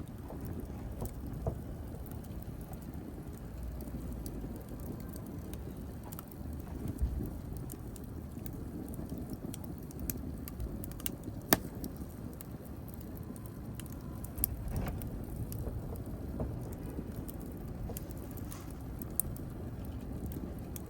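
Wood fire burning in a fireplace: a steady low noise from the flames, with scattered sharp crackles and pops. The loudest pop comes a little past the middle.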